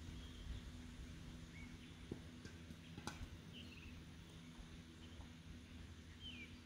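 Faint, scattered short bird chirps over a low steady hum, with a single sharp click about three seconds in.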